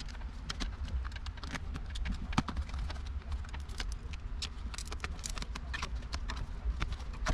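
Irregular clicks and knocks of plastic car door trim and clips being handled and pried apart, over a steady low rumble.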